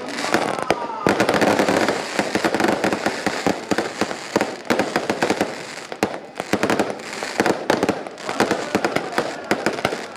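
A long string of firecrackers going off, a dense, irregular rattle of sharp bangs that keeps up the whole time, with voices underneath.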